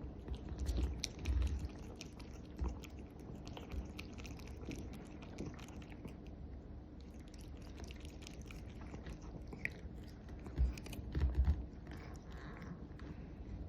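Black cat lapping water, a run of small wet clicks from its tongue. A few low thumps come about a second in and again near the end.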